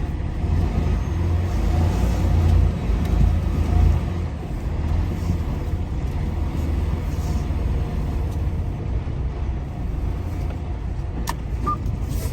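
Semi-truck diesel engine running at low speed, heard as a steady low rumble that grows louder for a few seconds about a second in. A sharp click and a short beep come near the end.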